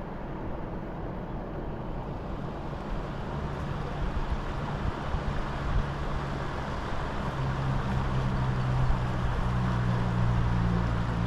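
A motor or engine running steadily under a rushing noise, its low hum growing stronger through the second half.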